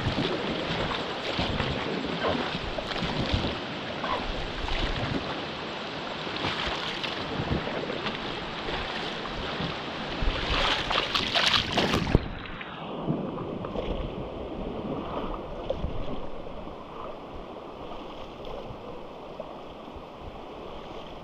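Rushing river water splashing around a paddle raft on a whitewater river. The splashing is busiest about ten to twelve seconds in; then the sound turns suddenly duller and quieter.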